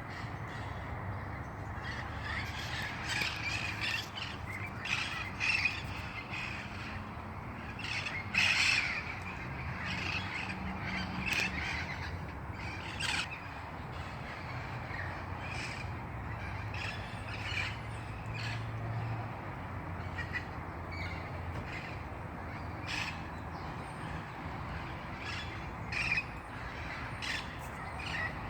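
A flock of red-crowned Amazon parrots calling: many short, harsh squawks, repeated and overlapping throughout.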